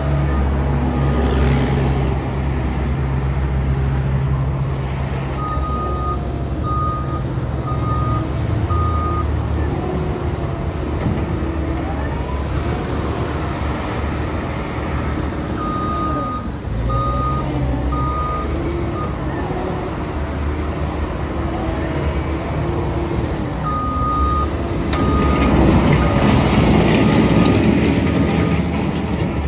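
Caterpillar 910H wheel loader's diesel engine running, its pitch rising and falling as the machine works. The reverse alarm beeps in three spells of several short beeps each. The engine gets louder and rougher near the end.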